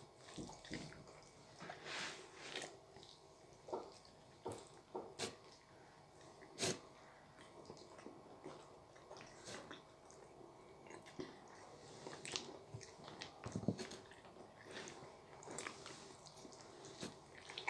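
Faint, scattered biting and chewing sounds of two people eating soft curry buns face-first without hands, with occasional short mouth smacks and clicks.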